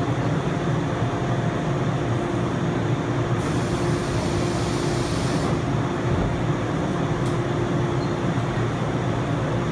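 Steady hum of a JR 185-series electric train standing at the platform, with one held tone running through it. A hiss sets in about three and a half seconds in and stops about two seconds later.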